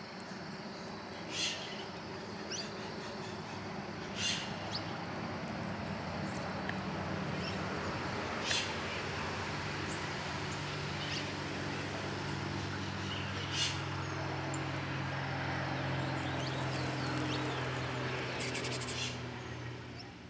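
Saffron finches and other small birds giving short chirps every few seconds, with a fast trill near the end, over a steady low hum.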